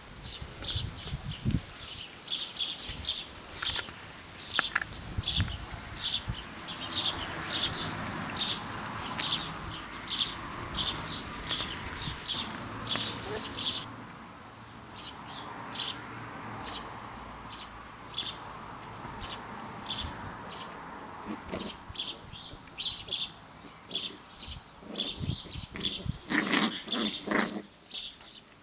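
A small bird chirping over and over in the background, short high chirps about three a second. Near the end a puppy's voice cuts in louder for a second or two.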